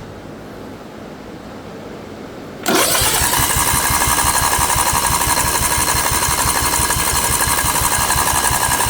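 Electric starter of a lawn tractor's swapped-in engine, energized by jumping the starter solenoid, cranking the engine for about six seconds with an even pulsing, starting about three seconds in and cutting off at the end. The engine does not catch; the owner suspects the new engine's own solenoid or a wire is keeping it from running.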